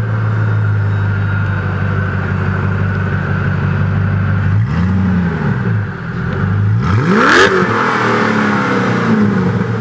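Koenigsegg CCXR Trevita's twin-supercharged V8 idling steadily, blipped briefly about five seconds in, then revved harder about seven seconds in, the pitch climbing quickly and falling back to idle.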